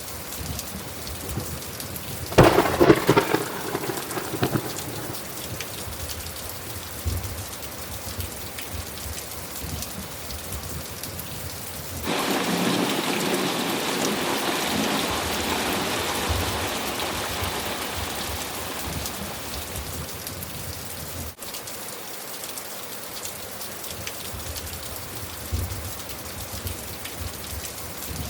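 Steady rain falling in a thunderstorm, with a sharp clap of thunder about two seconds in that rumbles away over a couple of seconds. Roughly halfway through, a louder surge of storm noise comes in suddenly and fades over several seconds.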